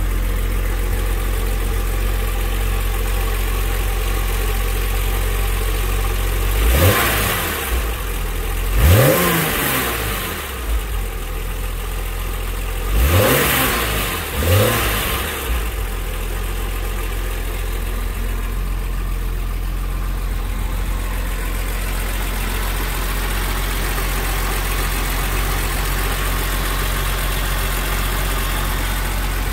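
BMW E34 M5 Touring's 3.8-litre S38 straight-six idling steadily. It is revved four times in two pairs, about seven and thirteen seconds in, each rev rising quickly and falling back to idle.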